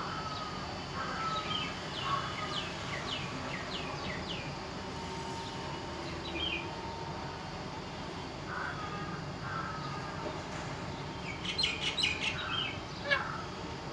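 Parrot chirping: a string of short, falling whistled chirps in the first half, then a quick cluster of harsher squawks near the end.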